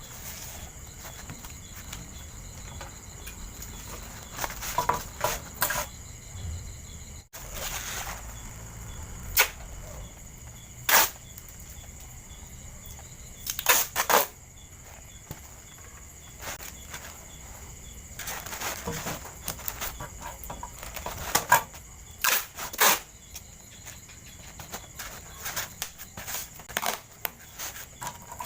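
Scattered sharp clicks, taps and knocks of small objects being handled, irregular and a dozen or so in all, over a faint steady hum with a thin high whine.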